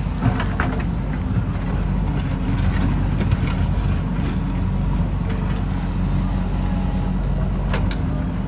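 Diesel engine of a JCB backhoe loader running steadily with a low rumble, with a few sharp knocks near the start and again near the end.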